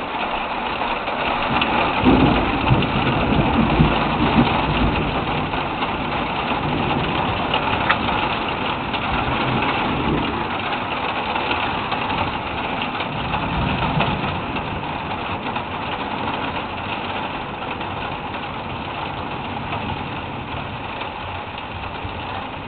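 Thunderstorm: a steady rush of rain with low rolling thunder, loudest a few seconds in and rumbling again around the middle.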